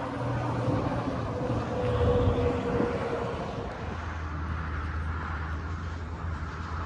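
Steady engine drone with a rushing noise over it; its low hum drops in pitch about four seconds in.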